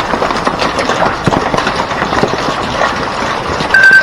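Hail and heavy rain pelting down, a dense clatter of countless small impacts over a steady rush. Near the end comes a short, high, steady beep.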